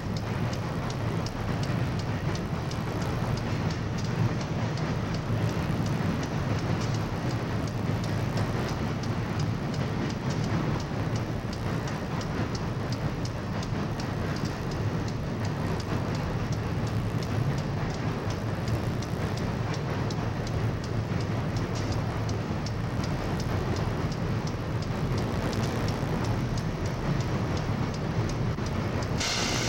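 Steady rumble of a CSX freight train's cars rolling across a steel girder bridge, mixed with the rush of the river below, with a brief higher hiss just before the end.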